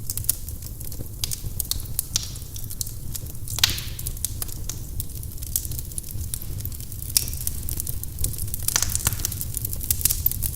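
Firewood burning in a fireplace, crackling with frequent irregular sharp pops over a steady low rumble. There is a louder hissing pop about three and a half seconds in.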